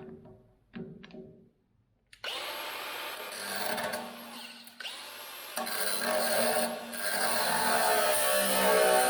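Handheld power tool working on the broom's steel frame: it starts about two seconds in with a rising whine, stops briefly about five seconds in, then starts again the same way and runs on steadily.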